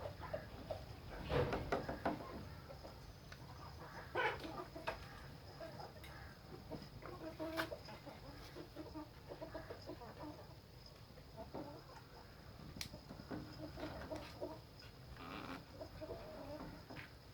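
Chickens clucking softly on and off, with a few short knocks and handling noises in between.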